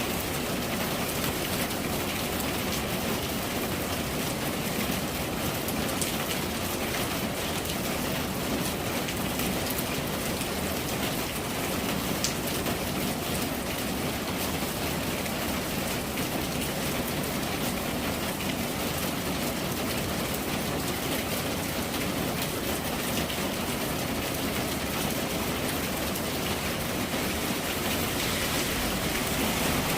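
Steady rain falling on surfaces, an even hiss with scattered drop ticks, growing slightly louder near the end.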